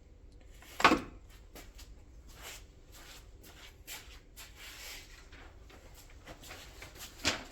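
A sharp knock about a second in and another just before the end, with light clicks and rubbing between: parts and tools being handled during work on a car's shifter console.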